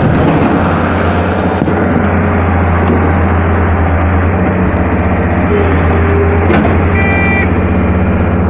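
Diesel engine of a KATO HD-650 excavator running steadily while it works. A brief high beeping tone comes in about seven seconds in.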